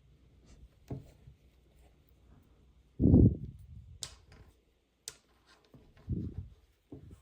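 Handling noises: a loud low thump about three seconds in, softer bumps near the start and end, and two sharp clicks about a second apart in between.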